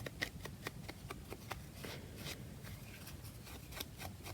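Paper and card craft tags being handled by hand on a table: a scattered run of light rustles, taps and clicks.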